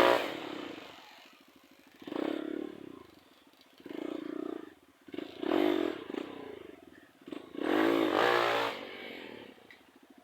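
Trail motorcycle engine revved in four short bursts, dropping back low between each.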